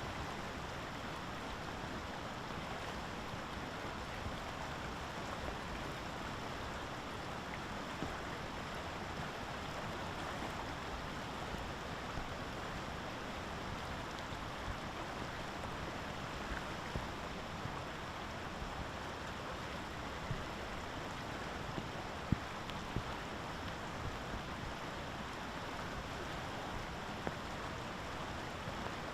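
Steady rain hiss, with a few sharp drip ticks standing out now and then.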